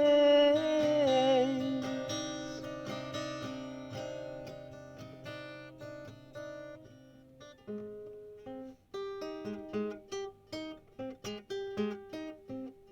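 Acoustic guitar: a chord rings out and slowly fades under the end of a held, wavering sung note, which stops about a second and a half in. From about eight seconds in, single notes are picked one after another.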